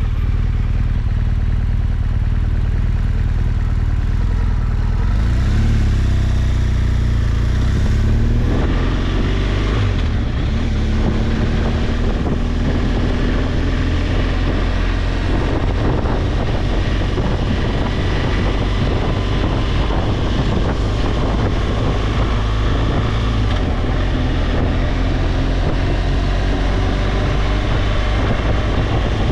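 BMW R1200GS boxer-twin engine pulling away and accelerating, its pitch rising as it comes up through the gears, then running steadily at road speed with wind rush on the microphone.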